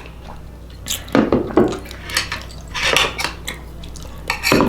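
Fork and spoon clinking and scraping against a bowl while eating, about half a dozen short clinks spread through.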